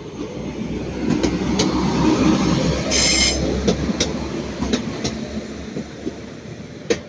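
Transport for Wales class 197 diesel multiple unit pulling out: a low engine and rail rumble builds, peaks, then eases as it moves off. Sharp clicks of wheels over rail joints run through it, with a brief high squeal about three seconds in.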